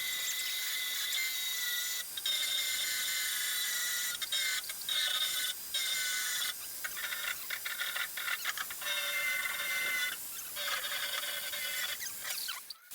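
A high-pitched power tool, such as a grinder or cut-off wheel, working on sheet steel. Its whine starts and stops repeatedly as it is pressed on and lifted off the metal.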